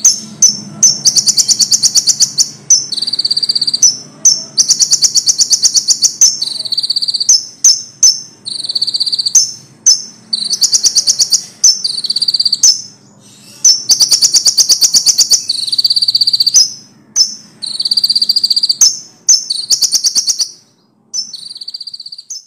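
Common iora (konin) singing loudly in rapid, rattling trill phrases of one to two seconds, alternating between a lower and a higher pitch with short gaps between them; the last phrase near the end is quieter.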